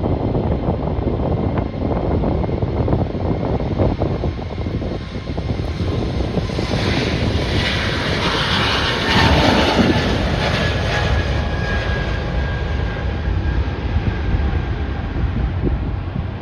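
An airliner passes close by. Its engine noise swells about halfway through and falls in pitch as it goes by, over a steady rumble of wind buffeting the microphone.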